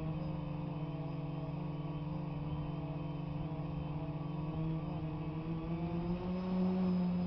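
DJI Phantom quadcopter's rotors humming steadily in flight, the pitch and loudness rising slightly near the end.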